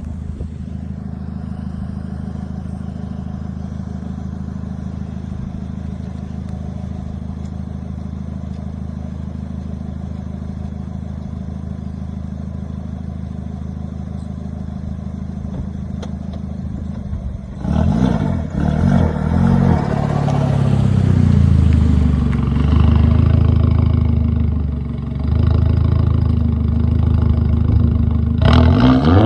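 Straight-piped exhaust of a turbocharged 1.8-litre four-cylinder VW Jetta Mk4 idling steadily for about seventeen seconds. It then suddenly revs hard and accelerates, much louder, with the pitch rising and falling, and ends in a quick run of sharp pops.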